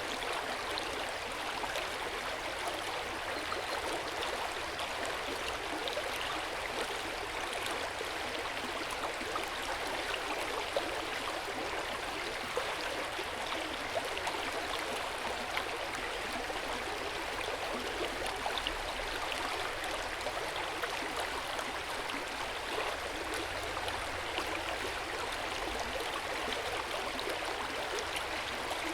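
Hot-spring water flowing steadily into an open-air bath, a continuous splashing with small drips ticking through it.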